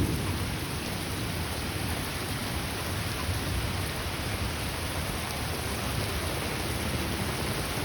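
Steady downpour of thunderstorm rain, an even hiss with a low rumble underneath.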